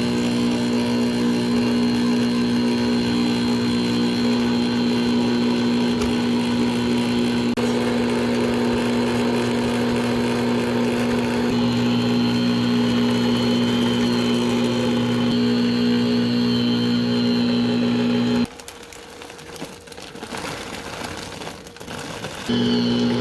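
Electric mixer motor running at a steady hum while beating cookie dough. About three-quarters of the way through it is switched off for a few seconds and then switched back on.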